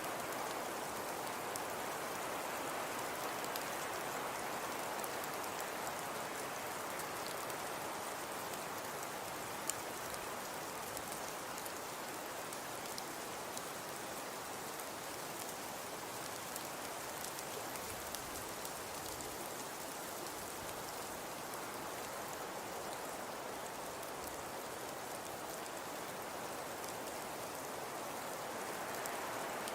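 Fireplace crackling: a steady hiss with small sharp pops scattered through it, one louder pop about ten seconds in.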